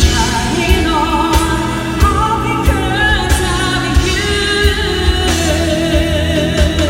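Pop ballad sung live over a band, the voice held in long notes with vibrato above a steady drum beat.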